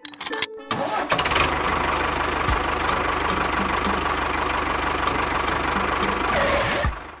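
An engine starting and then running steadily for about six seconds, cutting off near the end.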